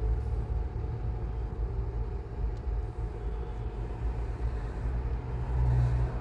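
Car driving, heard from inside the cabin: a steady low rumble of road and engine noise, swelling briefly near the end.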